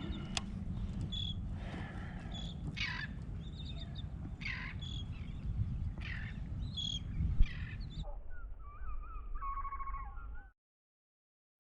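Repeated bird calls, each a falling squawk, with shorter high chirps between them, over a steady low rumble. The sound changes abruptly about eight seconds in, to different wavering calls, and then cuts to silence about a second before the end.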